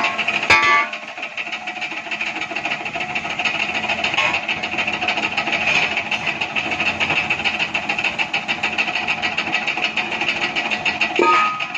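A machine running steadily with a fast, even rattle, with a sharp click about half a second in.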